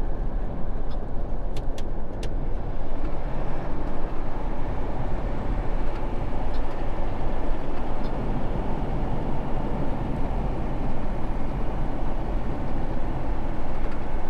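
Semi truck under way, a steady mix of engine and road noise heard from inside the cab, with a few light clicks about a second or two in.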